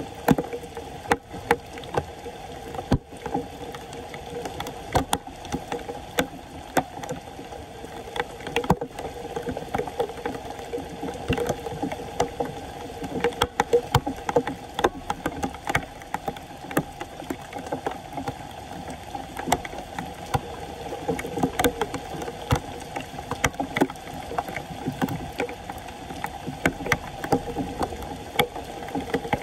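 Floodwater sloshing and splashing, with many small sharp knocks and clicks over a steady hum.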